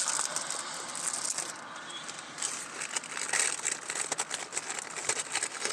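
Cracker packet crinkling as it is handled, a run of short, irregular crackles.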